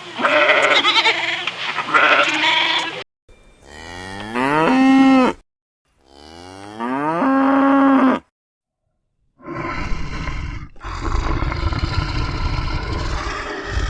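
A goat bleating, then a cow mooing twice, each long moo rising in pitch and then held steady. Near the end comes a rough, noisy animal sound.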